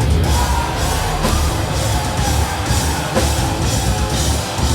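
A metal band playing live in a club, with heavy distorted guitars, bass and pounding drums between sung lines.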